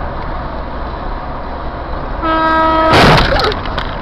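Steady road and engine noise, then a vehicle horn sounds for under a second and is cut off by the loud crash of a car collision about three seconds in, with clattering after the impact.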